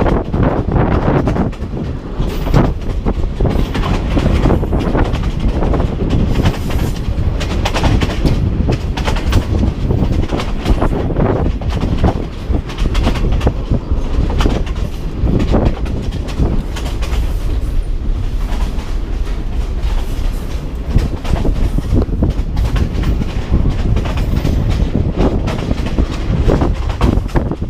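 Passenger train running, heard from aboard the carriage: a continuous loud clatter and rattle of the car, with wheels clacking over the rail joints.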